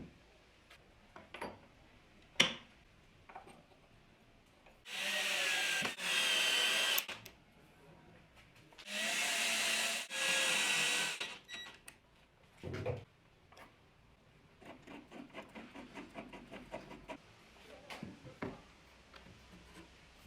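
Handheld power drill running in four short bursts, two pairs about four seconds apart, its motor pitch wavering under load. Small knocks and taps of handling wood and parts come between the bursts.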